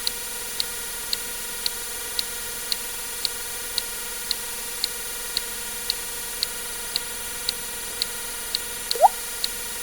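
A water-drip sound effect, one short rising plink, near the end, over steady ticking about twice a second and a constant background hiss.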